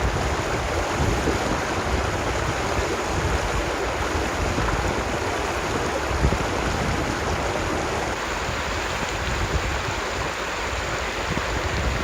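Waterfall and mountain stream running: a steady, even rush of water.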